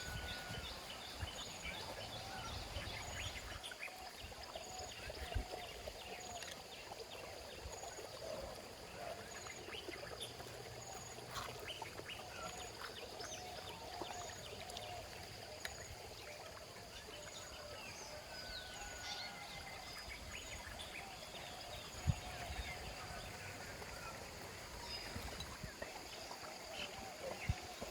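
Outdoor nature ambience: several birds chirping and calling over a low rushing background. A high pip repeats about once a second through most of it, and a few single knocks stand out.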